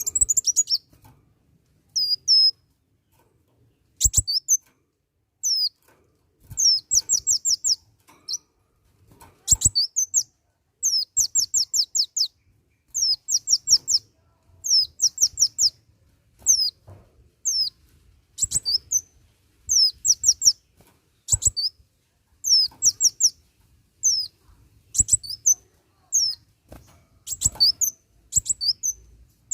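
Kolibri wulung sunbird singing persistently: quick runs of high, thin, downward-slurred notes, four to six in a row, repeated every second or two. A few sharp clicks come in between.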